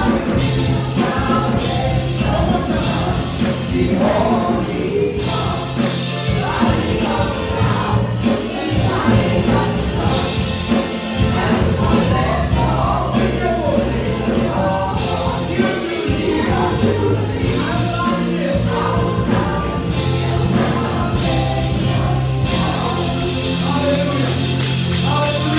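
Gospel music: a choir singing over a band with bass and drums.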